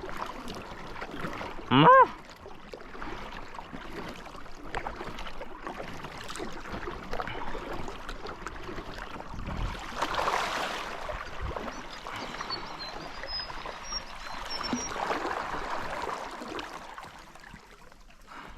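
Water sloshing and trickling around a small paddled boat, with two louder swishes about ten and fifteen seconds in. A short, loud rising call sounds about two seconds in, and faint high bird chirps come in the second half.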